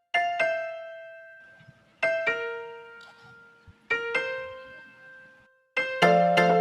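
Piano background music: a few slow chords struck about two seconds apart, each left to ring and fade, then a busier run of repeated chords starting near the end.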